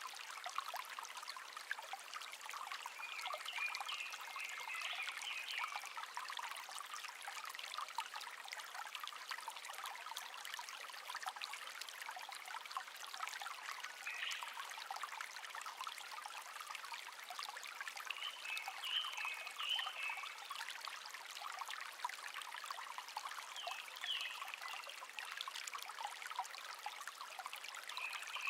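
A shallow stream babbling steadily, with a small bird singing short high phrases every few seconds.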